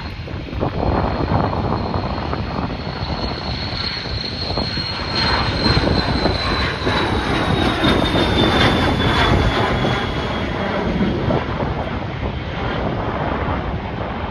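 Airliner passing by on the runway, its engines making a steady rumble with a high whine that drops in pitch around the middle as it goes past. Gusty wind buffets the microphone.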